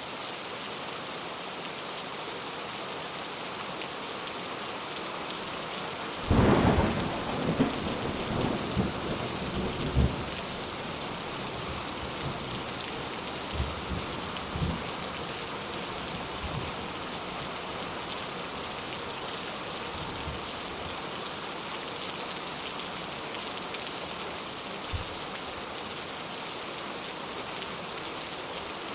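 Steady rainfall hissing, broken about six seconds in by a sudden clap of thunder that rumbles and crackles for about four seconds before dying away. A few fainter, shorter rumbles of thunder follow later.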